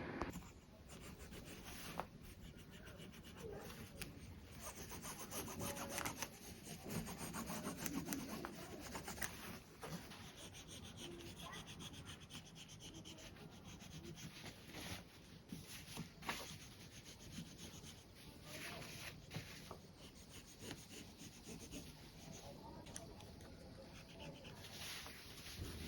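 Fabric being handled and rubbed in a sewing workspace, a continuous rustle broken by occasional light clicks and taps.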